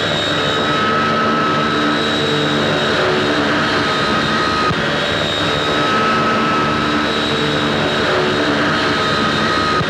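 Small propeller plane's engine droning steadily on a film soundtrack, with a pattern of tones that repeats every couple of seconds.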